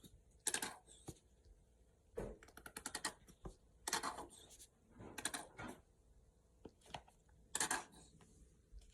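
Seasoning shaker being shaken over sliced cucumbers: short, irregular rattling shakes, about six over several seconds, with quiet between them.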